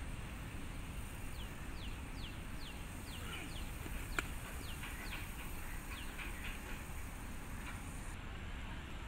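A bird calls with a run of short, quickly falling whistled notes, about a dozen over several seconds, over steady outdoor hiss. About four seconds in, a cricket ball gives a single sharp knock, the loudest sound.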